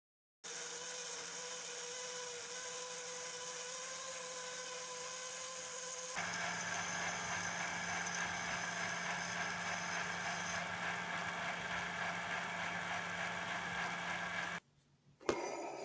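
Drill with a hole saw cutting the centre hole in a lathe faceplate blank, running steadily. The sound shifts abruptly about six seconds in, cuts off suddenly near the end, and a short burst follows.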